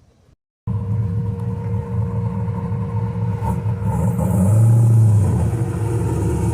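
A car engine running with a steady low exhaust rumble that starts abruptly just under a second in and swells briefly about four and a half to five seconds in.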